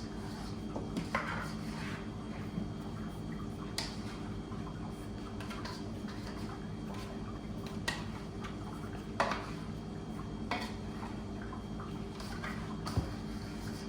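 Scattered clinks and clatters of kitchen utensils and dishes, irregular and a second or more apart, over a steady low machine hum.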